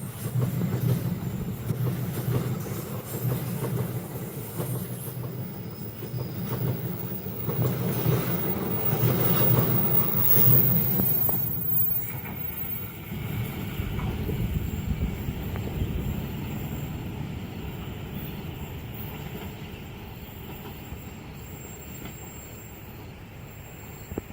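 A train passing at speed, its wheels clattering on the rails, loudest about ten seconds in and then fading away.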